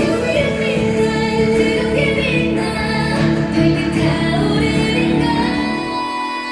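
K-pop song with female singing over a full backing track, played loud through a stage sound system; the bass drops out briefly near the end.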